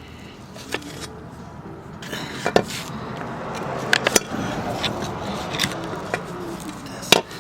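Metal parts being handled: a few sharp clinks and knocks, the loudest near the end, over a steady rustling hiss.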